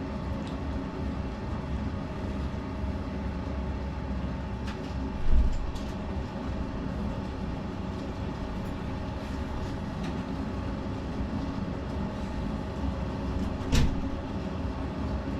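Potter's wheel running with a steady hum and low rumble while clay is thrown on it. There is a single thump about five seconds in and a sharp knock near the end.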